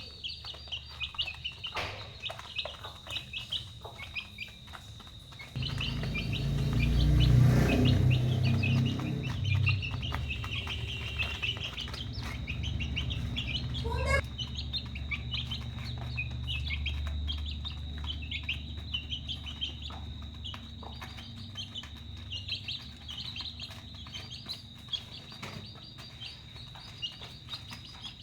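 A brood of chicks peeping continuously, many high chirps overlapping. A low rumble sets in suddenly about six seconds in, is loudest over the next few seconds, and fades away by around twenty seconds.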